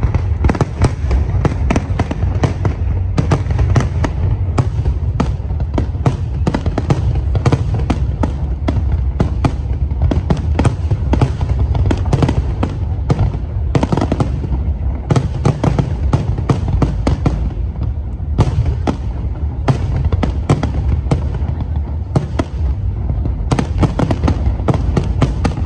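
Aerial fireworks display: a dense, continuous volley of sharp bangs and crackles over a heavy low rumble of launches and bursts.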